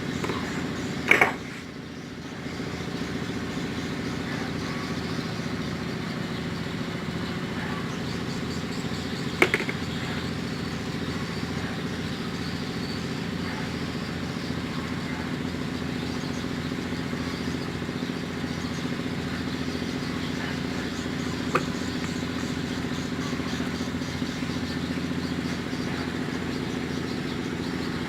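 Mitsubishi Strada L200 pickup engine running steadily at idle, an even rumble. There is a sharp click about a second in, after which the sound briefly drops and then comes back. Two more short clicks follow later.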